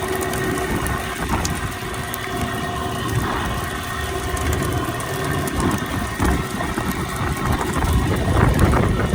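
Fishing boat's engine idling steadily, with a gusting low rumble of wind on the microphone and sea noise over it.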